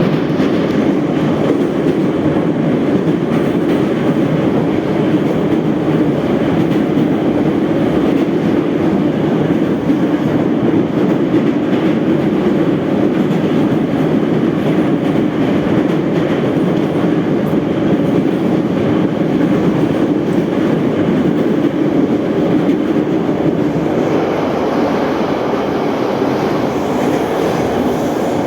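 Type 81-717/714 metro train running at speed between stations, heard from inside the car: a steady, loud noise of wheels on rails and the running gear.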